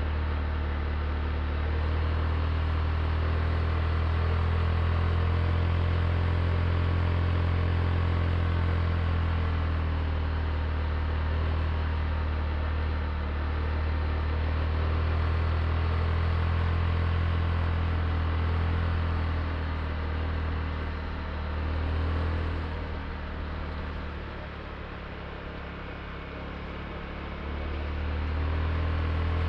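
Honda Click scooter's small single-cylinder engine running steadily under way, with a steady low hum. It eases off and goes quieter for several seconds about two-thirds in, then picks up again near the end.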